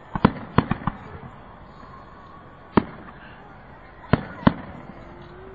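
Fireworks going off: a quick run of about six bangs in the first second, a single bang about three seconds in, and two more a little after four seconds.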